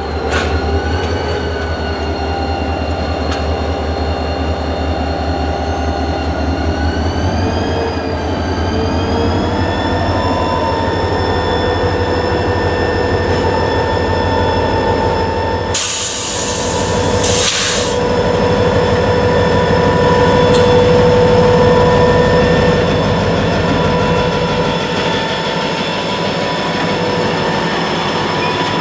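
CSX EMD GP40-2 diesel locomotives and road slug working at low speed. There is a steady low engine rumble, and several whining tones that bend in pitch for the first ten seconds and then hold steady. About sixteen seconds in comes a short double burst of hiss.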